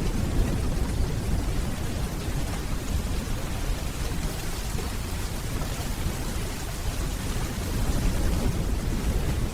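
Steady rainfall with a low, rolling rumble of distant thunder underneath, swelling slightly near the end.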